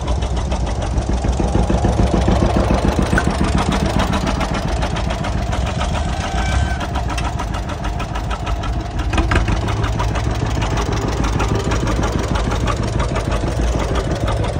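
Old tractor engine idling, a steady run of firing pulses.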